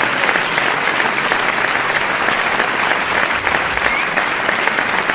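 Continuous applause from a crowd, many hands clapping at once in a dense, steady patter with no let-up.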